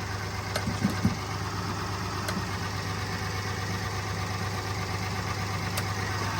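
A vehicle engine idling steadily, with a steady low hum, and a couple of low thuds about a second in.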